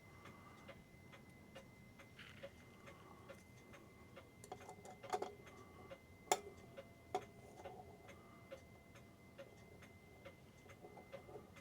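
New England Clock Company clock movement ticking steadily, with a few louder knocks about five to seven seconds in.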